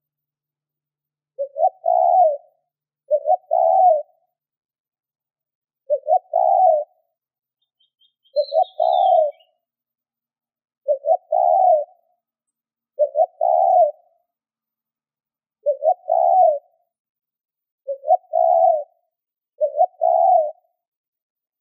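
Spotted dove cooing repeatedly: nine calls, each a short stuttered note followed by a longer coo, about every two to three seconds. A faint chirp from a smaller bird comes once, about eight seconds in.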